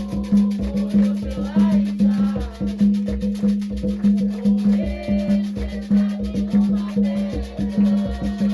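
Afro-Brazilian religious music for Xangô: drums beating a fast, even rhythm with a shaker and voices singing over them.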